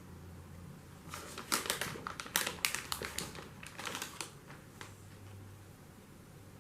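Cat crunching dry pillow-shaped treats: irregular crisp crunches for about three seconds, stopping a little after four seconds in.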